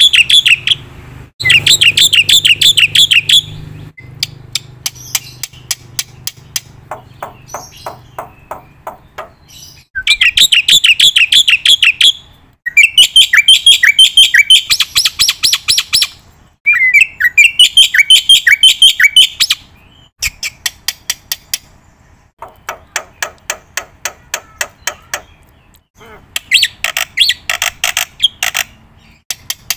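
A bird chirping in fast, rapidly repeated trills, in runs of a few seconds with short pauses between.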